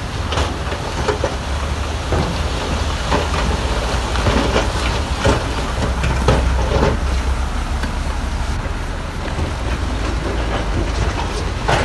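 Heavy construction machine's diesel engine running with a steady low drone, with irregular clanks and knocks through it.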